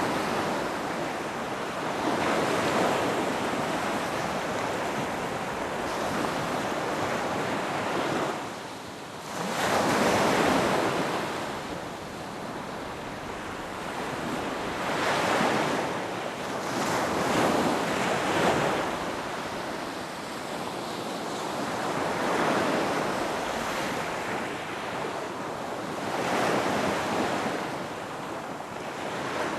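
Ocean waves breaking and washing up a beach, swelling and falling back every few seconds, with the loudest surge about ten seconds in after a brief lull.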